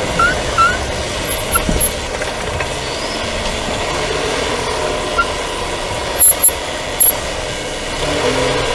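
Renault Duster driveline heard from under the car while driving: steady running noise with short chirping squeaks, several in the first two seconds and then a few scattered ones, from the left driveshaft's inner CV joint boot rubbing where it enters the automatic gearbox as it expands with heat. Three loud knocks come about six to seven seconds in.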